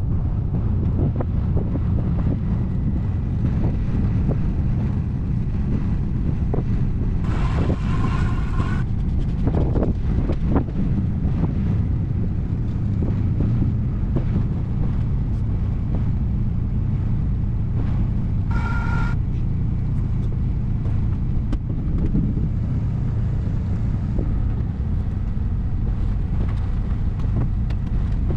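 A dually pickup truck's engine running as it backs up under a truck camper, under steady wind noise on the microphone. A short tone sounds twice, once about a quarter of the way in and once about two-thirds in.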